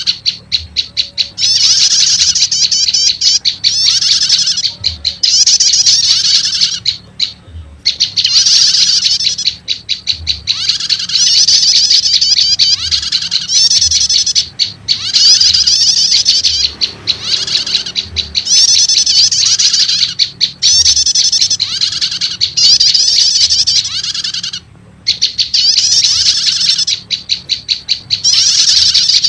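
Recorded lure calls of the prenjak lumut mixed with other prenjak (prinia-type) calls: loud, rapid chattering trills in phrases of one to two seconds, repeated with short breaks.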